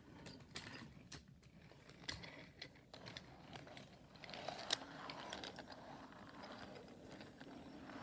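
Wooden toy train rolling along a wooden track, with scattered light clicks and a rattle that thickens about halfway through.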